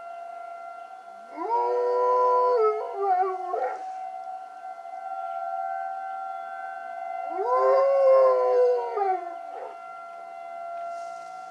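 A dog howling twice, each howl a couple of seconds long, sliding up, holding, then falling away. Under the howls a tornado warning siren holds a steady tone.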